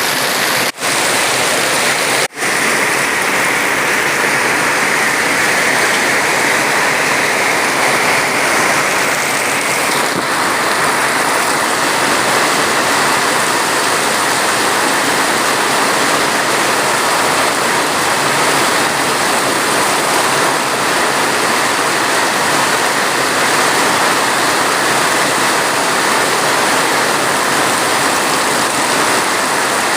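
Steady rain, an even dense hiss with no let-up, cut by two very short dropouts in the sound about a second and about two seconds in.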